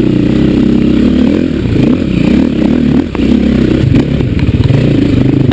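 Dirt bike engine running hard at changing revs, with a couple of sharp knocks about three and four seconds in.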